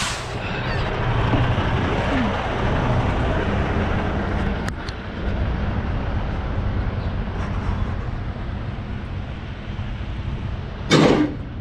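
Semi truck's diesel engine running steadily while the trailer's tandem axles are being slid and set. A single sharp click comes about halfway through, and a brief loud burst of noise near the end.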